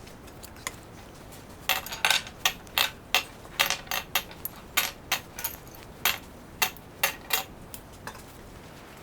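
Metal hardware clinking and clattering as it is handled: about twenty sharp, irregular clinks over a few seconds, starting a couple of seconds in.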